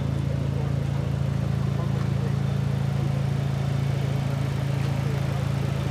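Car engine running steadily at idle, a low, even hum that does not rise or fall.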